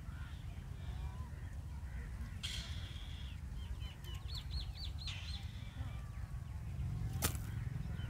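Birds calling: a harsh, raspy call about two and a half seconds in, then a quick run of about six high chirps near the middle, over a steady low rumble. A single sharp click comes near the end.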